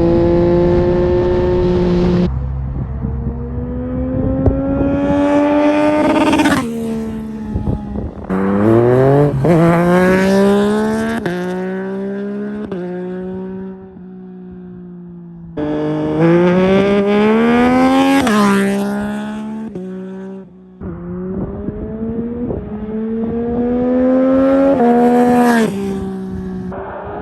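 2022 Yamaha MT-09's 890 cc inline-triple engine through a full carbon Akrapovic exhaust, ridden hard. It accelerates through the gears several times, its pitch climbing and then dropping sharply at each upshift, with lower stretches of deceleration in between.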